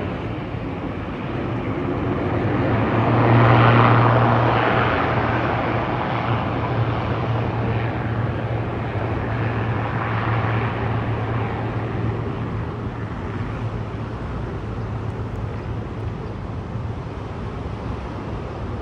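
UNI Air ATR 72-600 turboprop taking off, its propellers giving a steady low drone; it is loudest about three to four seconds in, then slowly fades as it climbs away.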